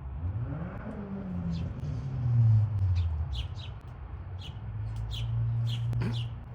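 Small birds chirping, short high notes sliding downward, repeated many times, over the low engine hum of a passing vehicle that rises in pitch early on and is loudest a couple of seconds in.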